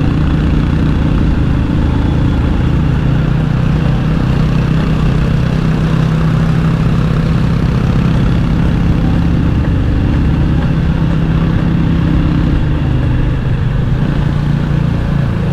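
Motorcycle engine running at a steady speed on the road, with an even, unbroken engine note.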